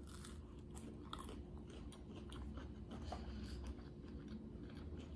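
Faint crunching and chewing of a spicy breaded plant-based chicken nugget (Simulate Nuggs) in a person's mouth, a run of short, irregular crisp crunches.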